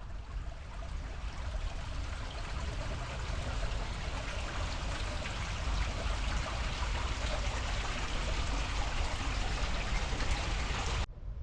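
Mountain bike riding along a forest trail: steady rolling noise of the tyres on the dirt, with wind rumble on the helmet- or bike-mounted action camera's microphone. The noise cuts off suddenly near the end.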